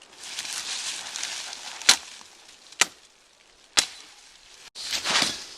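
Axe chopping firewood: three sharp strikes of the blade into wood, about a second apart, with rustling before and after them.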